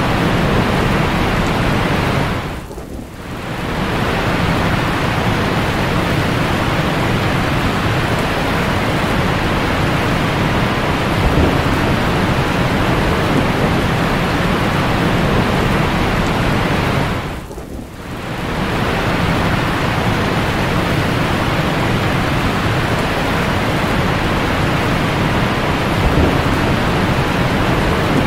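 Heavy rain falling in a steady, dense hiss. The sound dips away briefly twice, about three seconds in and again near eighteen seconds.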